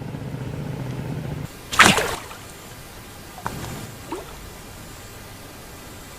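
Water splashing once, loudly and briefly, about two seconds in, after a low steady hum cuts off; a couple of small faint splashes follow.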